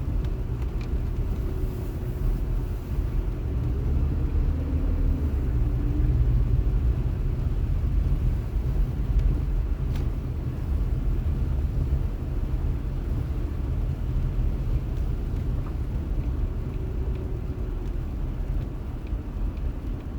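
Steady low rumble of a car heard from inside the cabin: engine and road noise, with a faint click about halfway through.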